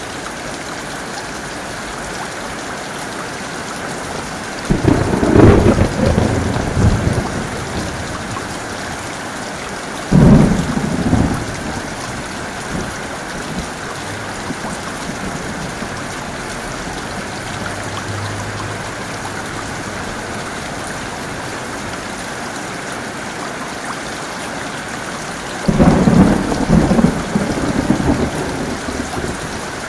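Heavy rain falling steadily in a thunderstorm, with three peals of thunder: the first about five seconds in, a shorter one about ten seconds in, and a third near the end, each rumbling for one to three seconds.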